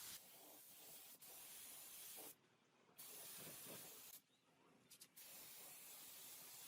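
Near silence: a faint steady hiss that drops out briefly twice.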